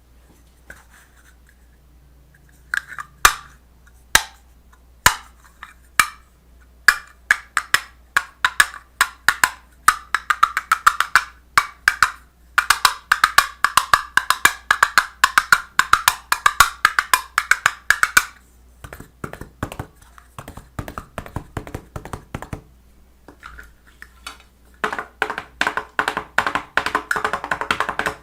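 A series of sharp knocks or taps: a few single strikes about a second apart, then fast dense runs of tapping, which thin out for a few seconds near the middle and come back dense near the end.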